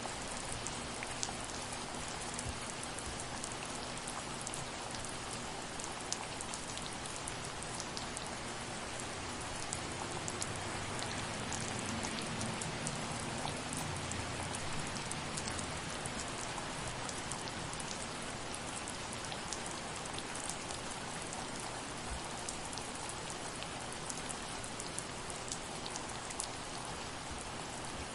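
Steady soft rain falling, a constant hiss with many individual drops ticking on a surface.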